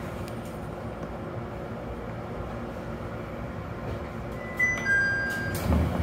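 Steady running noise inside a local train carriage as it comes in to its terminus. Near the end there is a short two-note electronic chime, the second note lower and longer, then a low thump.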